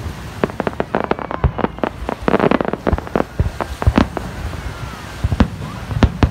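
Aerial fireworks shells bursting in quick, irregular succession: a string of sharp bangs, with a dense run of crackling reports about two and a half seconds in.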